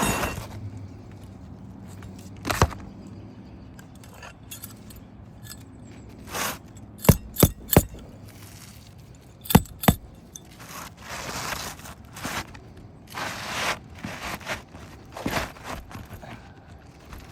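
Sharp knocks of hand work on an asphalt roof shingle, likely a hammer setting the replacement shingle: one knock a couple of seconds in, three quick knocks about seven seconds in, two more near ten seconds. Scraping and rustling of the shingle and tools between.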